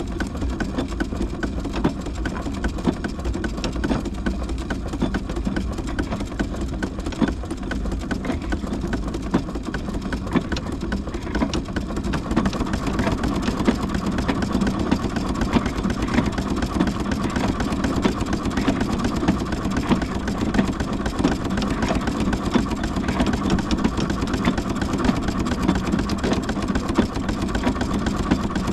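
Large steam engine running while being driven, a steady mechanical clatter from its working parts that grows a little louder about halfway through.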